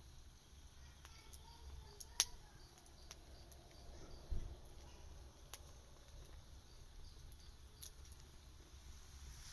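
Wood campfire crackling quietly: a few sharp pops spread through, the loudest about two seconds in, over a faint low rumble, with a soft low thump a little past four seconds.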